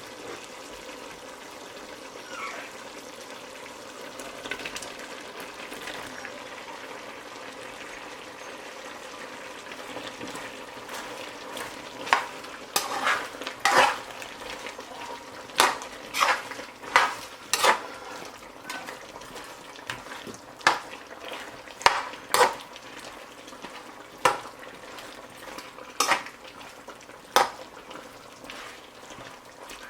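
Chicken frying in oil in a pot, hissing steadily. From about a third of the way in, a spoon knocks sharply against the pot again and again as the chicken and potatoes are stirred.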